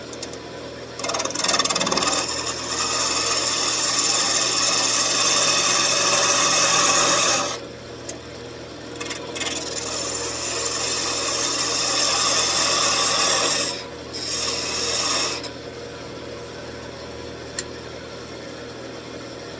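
Wood lathe running with a turning tool cutting into the spinning wood in three bouts, the first about six seconds, the second about five, the last about one. Between and after the cuts only the lathe's steady motor hum is heard.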